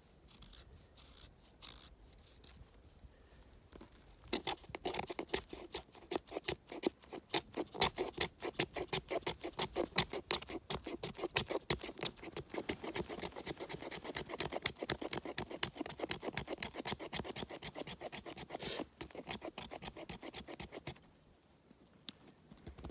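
Fatwood being scraped into fine shavings for tinder: quick, repeated rasping strokes, several a second. They start about four seconds in and stop shortly before the end.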